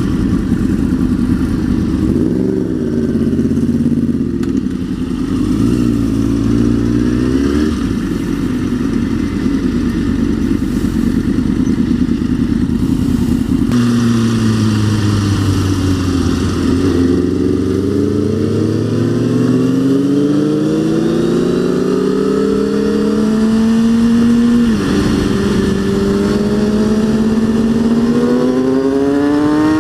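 Kawasaki ZX-6R 636 inline-four sport-bike engine under way: it holds a steady pitch for a stretch, then accelerates with the pitch climbing for several seconds, drops abruptly at an upshift near the end, and climbs again.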